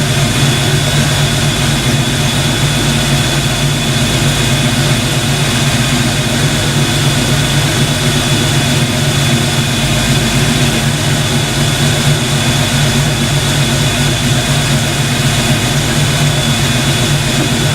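Loud, steady mechanical drone with a low hum and a constant high whine, unchanging throughout.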